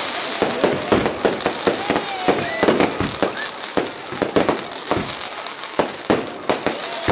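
Fireworks going off: a fast, irregular string of bangs and crackles.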